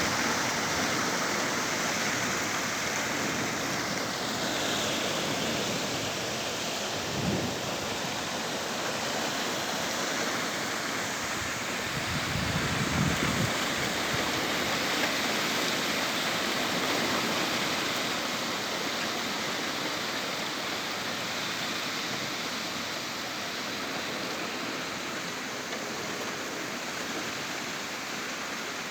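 Heavy rain pouring steadily in a thunderstorm, with low rumbles of thunder about seven seconds in and again around twelve to thirteen seconds in.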